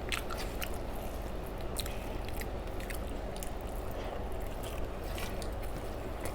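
Faint eating sounds: chewing of rice and fish with small, irregular wet clicks and smacks, over a steady low room hum.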